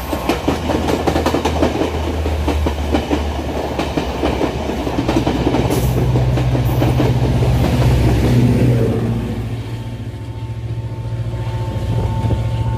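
Class S13 diesel multiple unit passing a station: a rapid run of wheel clicks over the rail joints above a diesel engine hum, then a louder, steady engine drone from about five seconds in that fades away after about nine seconds.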